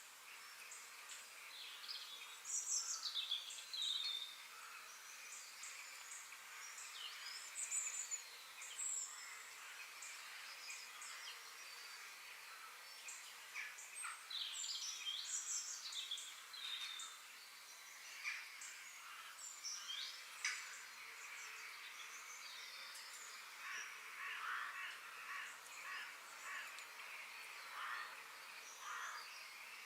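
Several birds chirping and calling at intervals over a steady faint background hiss of outdoor ambience.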